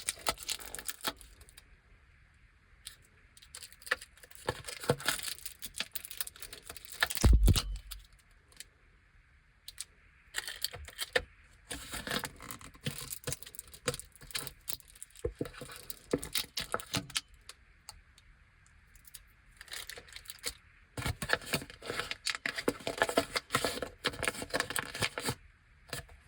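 Plastic sweet wrappers being handled, crinkling and clicking in short spells with quiet gaps between, and one heavier knock about seven seconds in.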